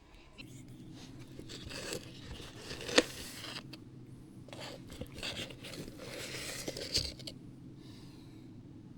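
Rustling and handling noises over a faint steady low hum, with a sharp click about three seconds in and another about seven seconds in.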